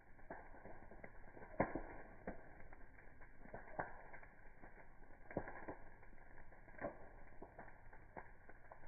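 Wood campfire crackling, with irregular sharp pops, the loudest about one and a half seconds in.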